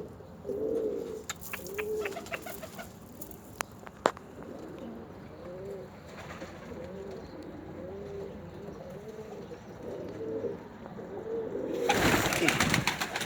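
Domestic pigeons cooing, a string of short low coos repeating over and over, with a few sharp clicks in the first few seconds. Near the end a loud rustling burst covers the cooing for about a second.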